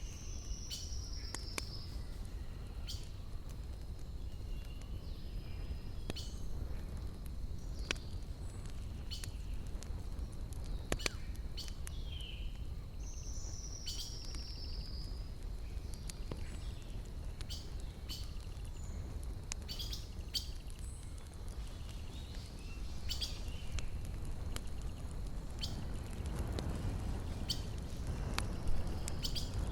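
Campfire crackling: scattered sharp pops and snaps of burning wood over a steady low rumble, which swells near the end. A bird calls in the background, with two high falling whistles, one near the start and one about halfway.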